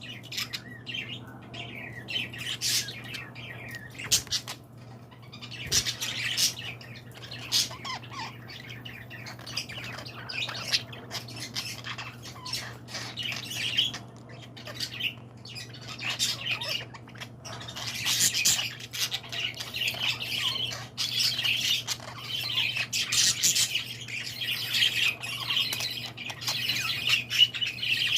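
Several birds calling, with many short overlapping calls that come thicker and more continuous in the second half, over a steady low hum.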